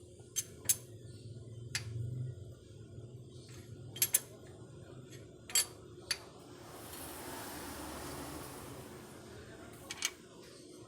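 Metal hand tools clinking against each other and against engine parts during timing-belt work: about eight sharp separate clinks, two of them close together around four seconds in, with a soft hissing rush for a couple of seconds past the middle.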